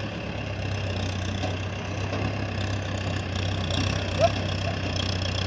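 Mahindra tractor's diesel engine idling steadily, with one short sharp sound about four seconds in.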